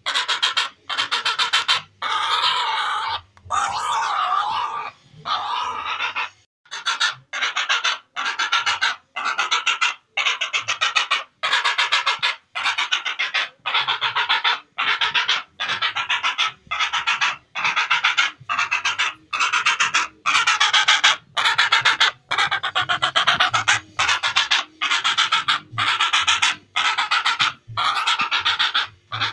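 Heron (cangak) calling over and over: harsh, rasping croaks about one and a half a second, run together into a longer call early on.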